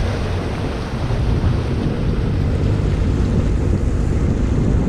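Motorboat running across open water, with steady wind rushing over the microphone and water noise off the hull.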